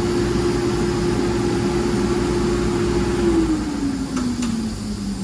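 Kawasaki ZX-6R inline-four engine held at a steady high rev, then the revs fall away smoothly about three seconds in as the throttle comes off.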